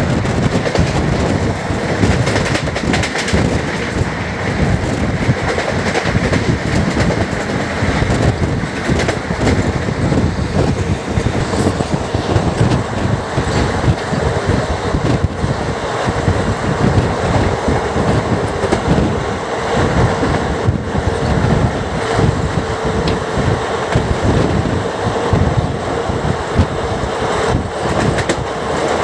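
Andaman Express passenger coaches running along the track: a steady rumble with an irregular rattle and clatter of wheels and coach fittings. A faint steady hum joins in during the second half.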